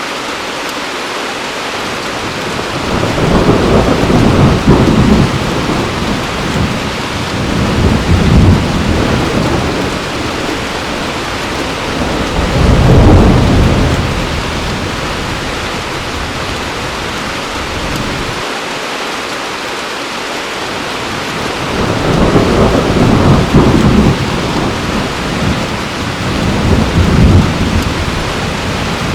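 Heavy rain falling steadily, with rolls of thunder rumbling over it: a long roll a few seconds in, another about halfway through, and a longer one in the last third.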